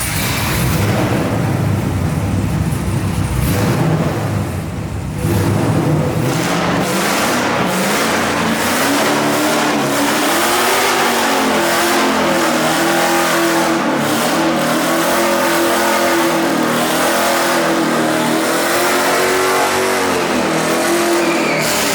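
LS V8 engine in a BMW E36 drift car revving hard, then held at high revs for a long stretch with the pitch rising and falling in waves, as in a stationary burnout with the rear tyres spinning on cement. It is a little loud.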